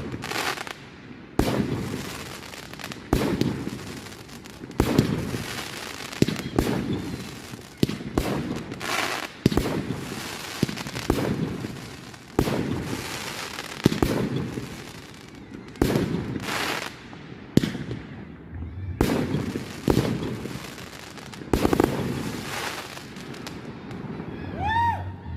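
Aerial firework shells bursting in quick succession, a sharp bang every second or two, each trailing off in a rumbling echo and crackle. A short whistle glides near the end.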